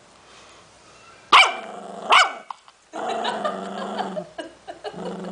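Cavalier King Charles spaniel puppy barking sharply twice, then growling steadily, pausing briefly and growling again near the end: a puppy guarding its snack.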